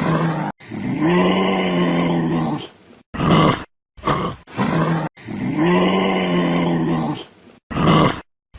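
Loud animal growling and grunting calls, a short edited clip that repeats about every four seconds, each pass broken by abrupt dead silences.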